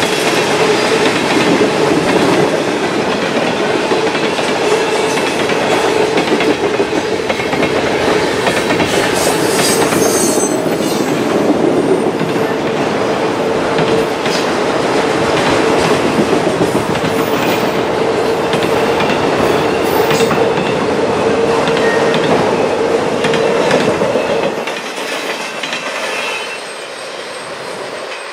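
Freight train cars (covered hoppers, then autoracks) rolling past at trackside, their wheels clattering on the rails with a steady ringing tone over the rumble. About 24 seconds in the last car goes by and the sound drops away to a quieter fading rumble as the train recedes.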